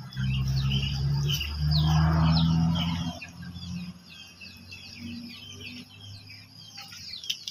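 Small birds chirping repeatedly, many short quick calls. A loud low steady hum starts with them and dominates the first three seconds, then fades.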